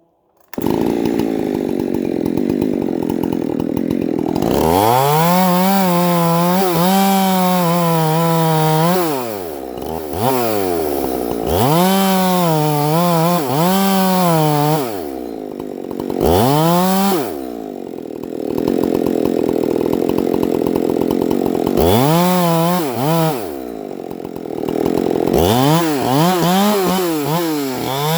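Chainsaw cutting into a standing fir to fell it. The engine picks up about half a second in and then goes to full throttle in the cut, its pitch sagging and recovering again and again as the chain bites. It drops back to a lower, steadier running a couple of times in between.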